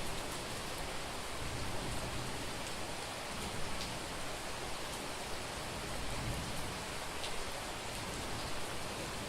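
Heavy rain falling steadily on a street, with a few faint drop ticks standing out.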